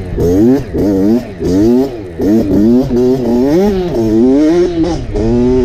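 Dirt bike engine revving up and falling back again and again as the throttle is opened and closed, with a few brief dips in loudness.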